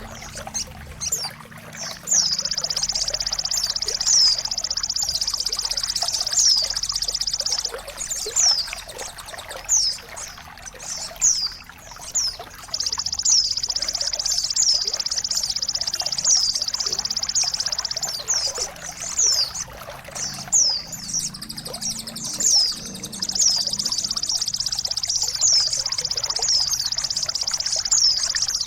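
Recorded birdsong used to train songbirds: rapid high chirps that sweep downward, repeated many times, alternating with long unbroken high trills that run for several seconds at a time, over a background of running, trickling water.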